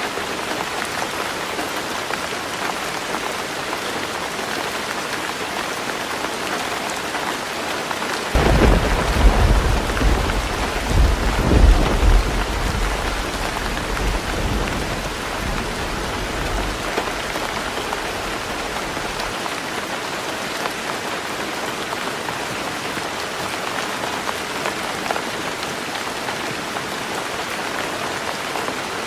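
Heavy rain falling steadily on a roof. About eight seconds in, a roll of thunder breaks in, loudest over its first few seconds, then rumbles away over about ten seconds.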